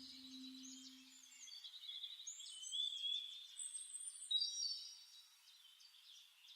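Faint songbird chirps and high trills that stop about five seconds in, while the low hum of a singing bowl dies away in the first second and a half.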